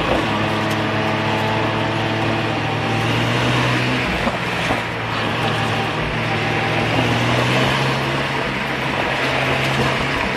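1994 Mazda RX-7's twin-turbo 13B rotary engine running under throttle through a cone course, its note shifting a few times, over steady tyre and road noise.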